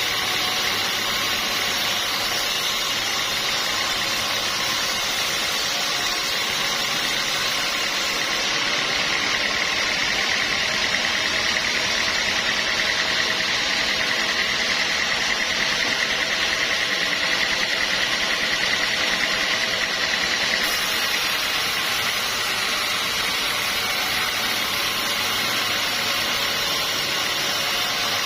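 Sawmill machinery running steadily. A high whine grows stronger from about a third of the way in and fades back about two thirds through.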